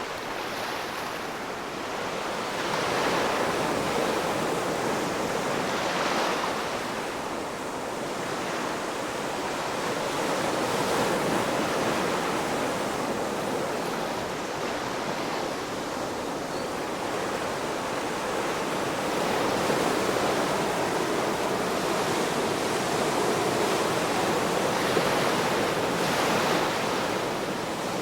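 Ocean waves washing onto a shore: a steady rush of surf that swells and eases every few seconds.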